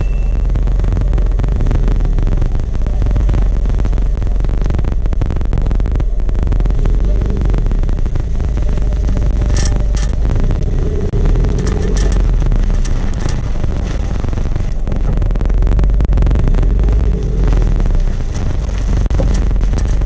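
Suzuki Swift (ZC72S) on the move, a steady low road rumble with short sharp clicks or knocks from the rear suspension now and then. The owner put this noise down to a worn rear torsion-beam axle at 150,000 km, and it stopped once the axle was replaced.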